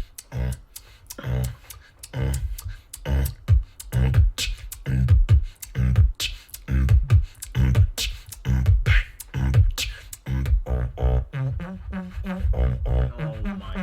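Beatboxing: deep bass kicks with sharp snare and click sounds in a quick, steady rhythm. A pitched bass line joins in near the end.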